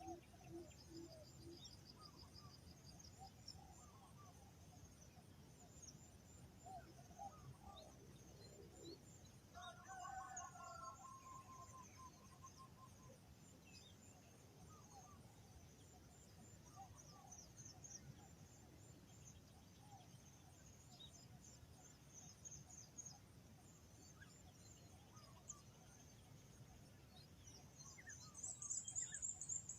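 Faint outdoor birdsong: small birds chirping high and thin on and off, with a short pitched call about ten seconds in and a burst of louder chirping near the end, over a low steady rumble.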